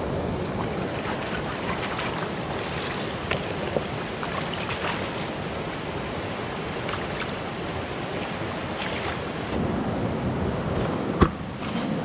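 Steady rushing of flowing stream water, with a few faint clicks and one sharp knock near the end.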